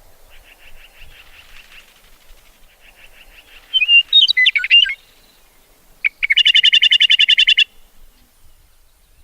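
Songbirds singing: a faint run of quick chirps, then a loud, varied warbled phrase about four seconds in, followed by a loud, rapid trill that lasts over a second.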